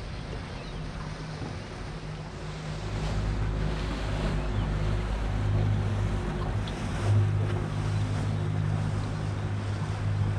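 A boat's motor running steadily with a low hum, growing louder about a quarter of the way in, with wind and water noise on the microphone.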